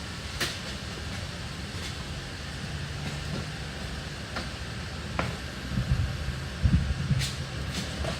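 Junk and scrap metal being handled and dropped: a few sharp clanks and knocks over a steady low rumble, with a run of heavier thumps about six to seven seconds in.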